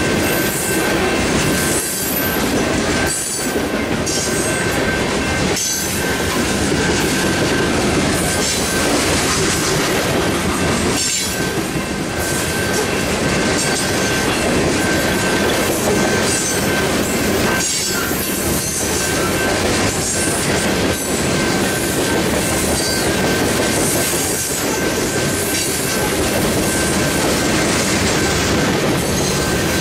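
Freight train of covered hopper cars rolling past at speed: a continuous rumble of steel wheels on rail, with clickety-clack as the wheel sets cross the rail joints. A thin, steady high squeal runs under it.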